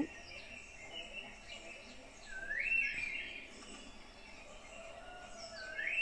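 A bird whistling a slurred note that rises and then levels off, heard twice about three seconds apart, over a faint steady high hiss of woodland background.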